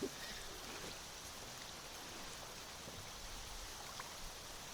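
Steady wash of wind and choppy water around a small boat, with a few faint ticks near the end.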